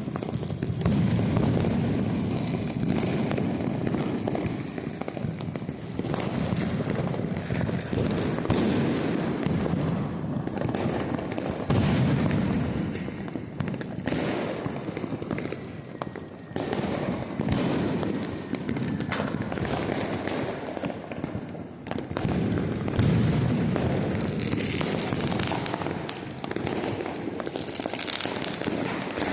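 Firecrackers going off nonstop: a dense crackle of many small bangs, with heavier, deeper bursts swelling up every few seconds.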